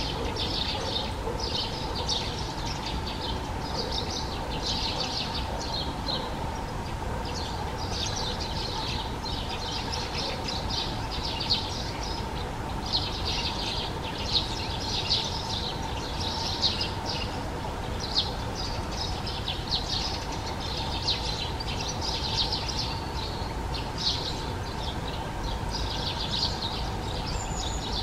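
High, rapid bird chirping in clusters, one after another roughly every second, with a few sharper single notes standing out, over a steady low rumble and a faint steady hum.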